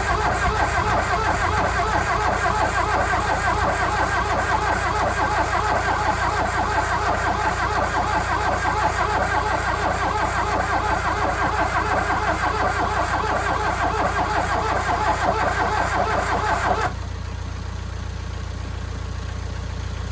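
Starter motor cranking a VW Rabbit pickup's 1.6 diesel engine in one long, fast, even churn for about 17 seconds without the engine firing, then cutting off suddenly. A quieter steady engine hum continues afterwards.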